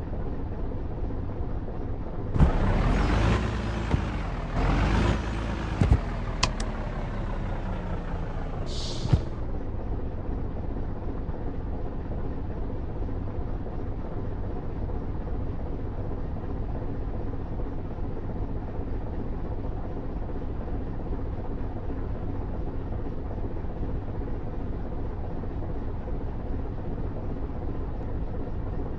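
Truck running steadily on the road with a constant engine drone. It gets louder for a few seconds early on, with a falling pitch, and a short hiss of air comes about nine seconds in.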